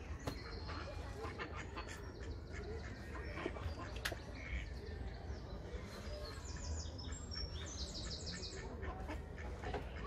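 Several birds calling and chirping, with two fast runs of repeated high chirps about six and a half and eight seconds in, over a steady low rumble.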